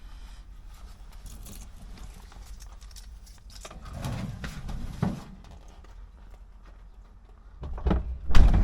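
Steady outdoor hiss with rustling and a few dull thumps, then a heavy thud near the end as a door shuts, after which the hiss drops away.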